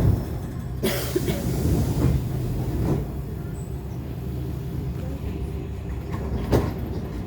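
Interior of an ET2 electric multiple unit standing at a station: a steady low hum from its onboard equipment, broken by a few short knocks, about a second in and again near the end.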